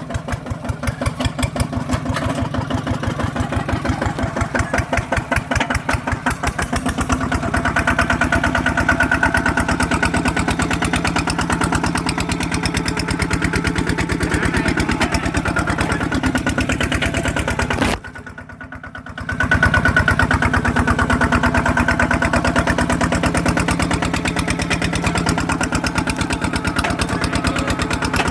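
ZT 155 Plus tractor engine running steadily with a fast, even firing beat while plowing. The sound drops sharply for about a second and a half about two-thirds of the way through, then returns.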